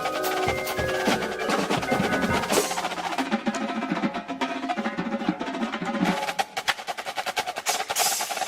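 Drum corps percussion section playing a feature: fast snare drum strokes and rolls, with mallet keyboards ringing held notes over the drums in the first couple of seconds.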